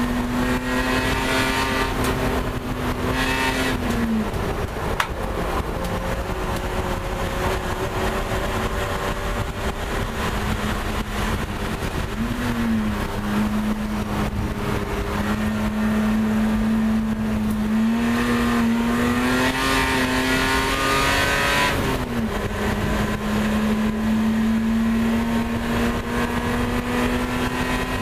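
Race car engine heard from inside the cabin, running hard at high revs around the track; its pitch drops briefly and climbs back three times.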